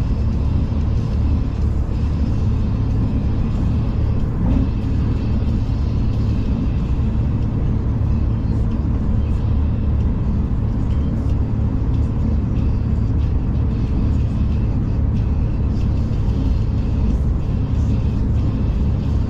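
Steady low rumble of a V/Line passenger train running, heard from inside the carriage.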